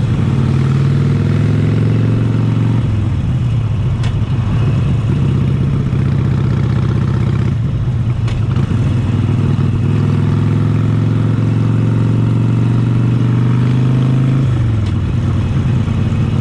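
Harley-Davidson Sportster 72's 1200 cc Evolution V-twin with Vance & Hines side-shot exhaust, pulling under way. The revs climb over the first couple of seconds and drop about three seconds in. They then pull steadily for a long stretch before dropping again near the end.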